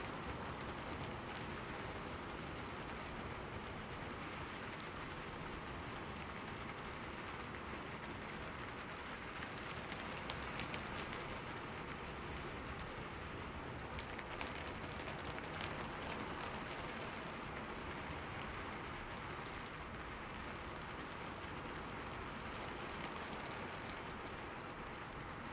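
Steady rain falling on forest leaves: an even hiss, with scattered single drops ticking out clearly here and there.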